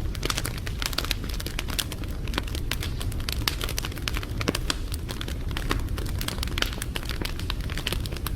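Wood fire crackling, with many sharp irregular snaps over a steady low rumble of the flames.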